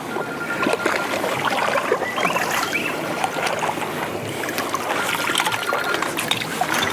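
Wind-driven chop lapping and splashing against a small fishing boat's hull, with small clicks and knocks of handling in the boat. A faint steady high whine comes and goes underneath.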